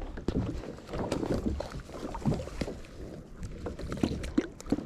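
Scattered irregular knocks and clicks over a low rumble on a small fishing boat.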